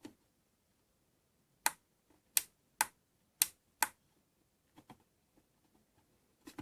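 A series of sharp clicks: five loud ones in quick succession, roughly half a second apart, then a few fainter clicks.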